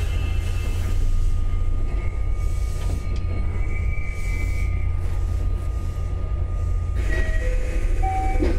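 JR West 227 series electric train running, heard at the gangway between two cars: a steady low rumble of wheels on track with faint steady tones over it. A few short tones appear near the end.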